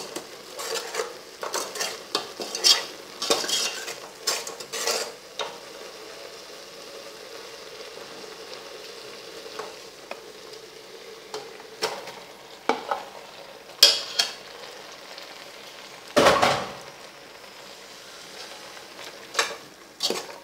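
A metal ladle scrapes and stirs a lemongrass-and-turmeric curry paste as it sizzles in oil in a metal pot, with quick repeated strokes for the first few seconds and then a steady sizzle. Later, as sliced raw beef goes in, there are sharp knocks of the ladle against the pot and one heavy thump.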